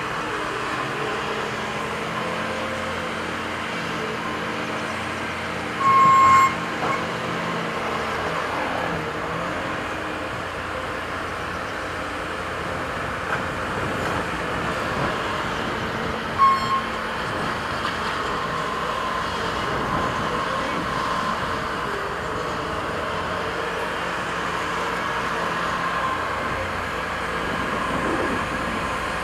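Diesel engines of construction machinery running steadily, with a short beep about six seconds in and a shorter one about ten seconds later.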